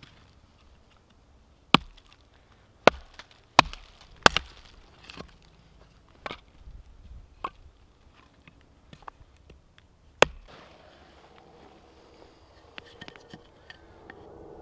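Wood being chopped with a hatchet or axe, most likely firewood for the tent stove. It comes as irregular sharp strikes, four loud blows close together in the first few seconds, quieter knocks after them, and one more hard blow near the end.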